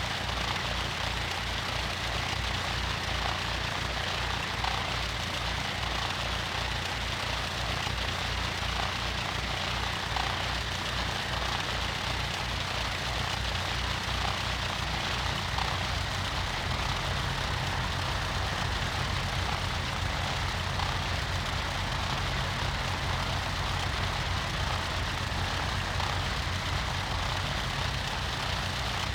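Cessna 152's four-cylinder piston engine and propeller running steadily, with an even low throb.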